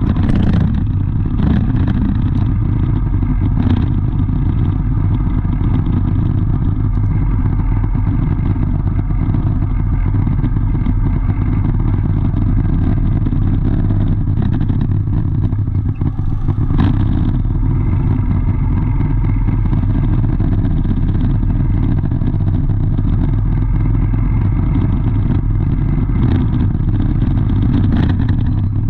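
Steady, loud low engine rumble of motor vehicles running, with a few short knocks scattered through it.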